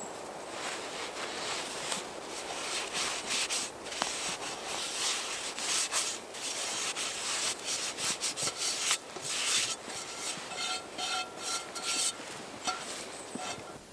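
Rough rubbing and scraping, a rapid irregular run of strokes that is densest in the middle and thins out near the end.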